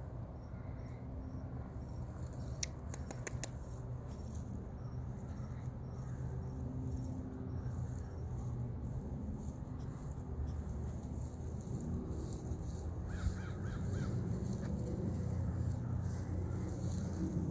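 Sandhill cranes calling over a steady low hum, with a few sharp clicks about three seconds in.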